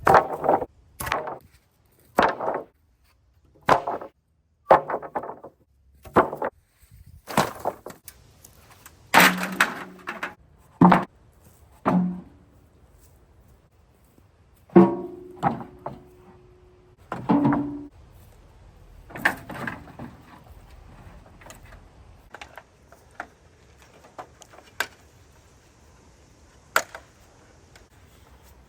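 Broken wooden fence boards being sorted and tossed, a series of separate knocks and clatters of wood on wood, some ringing briefly. The knocks come every second or so at first and thin out after about twenty seconds.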